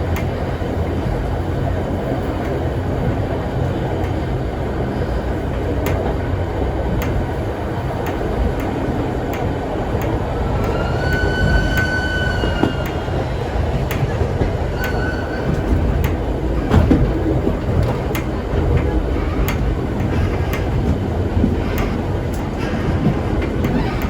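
A vintage heritage train carriage rolling along the track: a steady low rumble with scattered rail-joint clicks. About halfway through comes a brief high squeal, with shorter squeals later.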